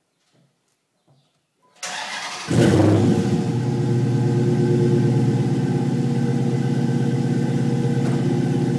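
2011 Dodge Challenger SRT8's 6.4-litre 392 HEMI V8 with a Flowmaster American Thunder Super 40 3-inch cat-back exhaust starting up. The starter cranks briefly about two seconds in, then the engine catches with a loud flare and settles into a steady idle.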